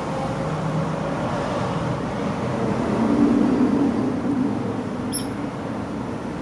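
Steady drone of vehicle traffic or a running engine, with low humming tones that swell louder about three seconds in, and a single short high-pitched chirp about five seconds in.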